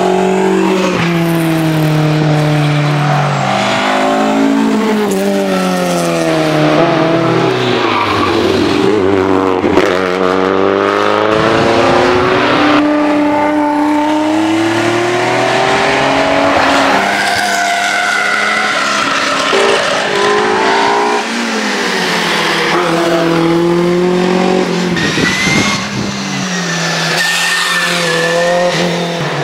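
Historic rally cars at full throttle on a stage, engines revving hard, climbing in pitch and dropping again at each gear change as the cars pass.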